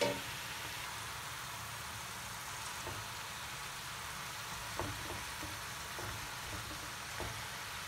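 Stir-fry vegetables sizzling steadily in a frying pan as they are turned with a spatula, with a few soft taps of the spatula against the pan.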